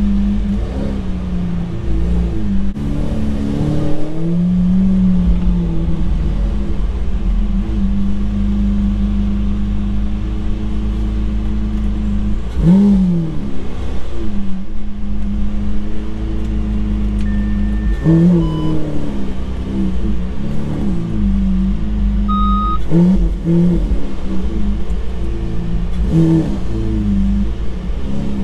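Car engine running while driving, with a steady low rumble. Its pitch rises and falls several times as it accelerates and eases off.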